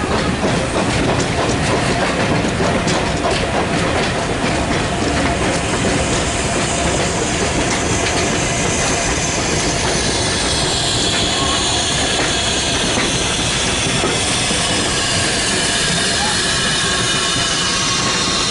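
Heritage train running on the rails, its wheels clattering over the rail joints. Later on, a high squeal from the wheels slides down in pitch.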